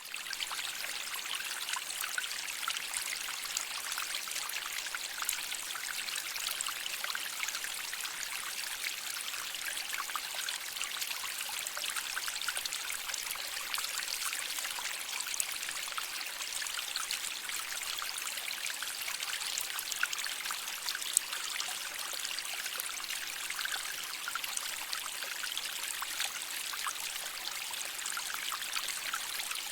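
A shallow stream of water flowing and trickling over rocks: a steady bubbling rush with many small splashes.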